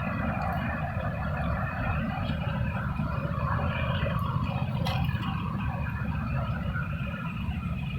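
Floodwater of the Palar river rushing steadily over a check dam, a continuous deep noise with a single brief click about five seconds in.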